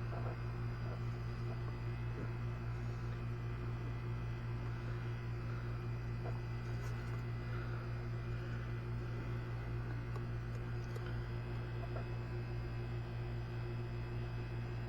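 Steady low electrical-sounding hum with a few faint clicks and taps scattered through it.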